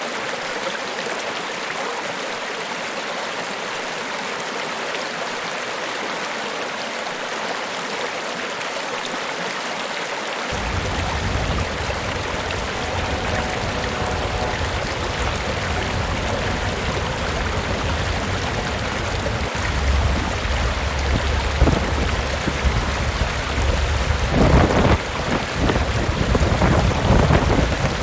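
Steady rush of Niagara Falls' falling water. About ten seconds in the sound changes abruptly and a deep rumble comes in, and in the last few seconds it is broken by uneven loud bursts.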